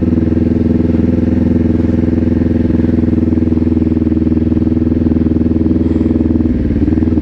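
Kawasaki Ninja 400 parallel-twin engine running at a steady engine speed while the bike is ridden. The engine note changes briefly about six and a half seconds in.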